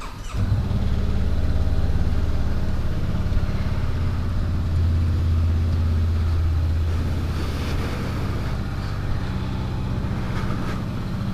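2019 Honda CB500X's parallel-twin engine starting about half a second in, then idling steadily on a cold start after sitting overnight.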